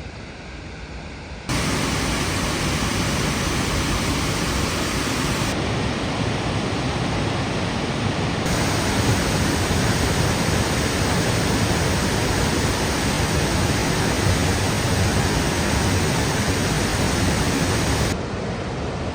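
Large waterfall rushing: a loud, steady, even wash of water noise that jumps louder about a second and a half in, shifts abruptly a couple of times, and drops back near the end.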